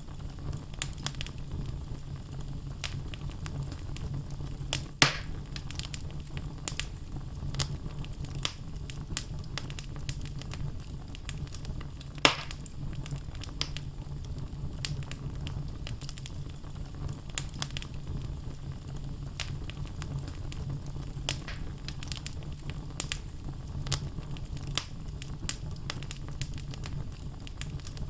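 Wood logs burning in a fireplace: a steady low rumble of flames with frequent crackles, and two louder pops about five and twelve seconds in.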